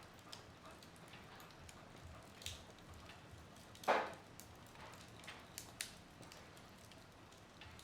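Wood fire burning in a fireplace: a low hiss with scattered crackles and pops, one sharper pop about four seconds in.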